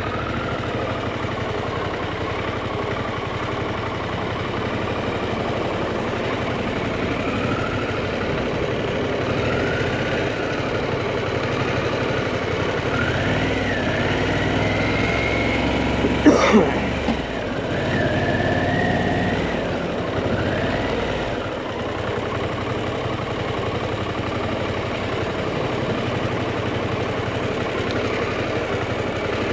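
Harley-Davidson Pan America's 1250 V-twin engine running on the move, its pitch rising now and then with the throttle. There is one sharp knock about halfway through.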